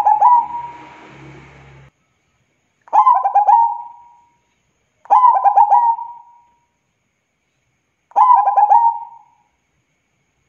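Zebra dove (perkutut) cooing: short trilling phrases of quick, rippling notes, four of them a few seconds apart.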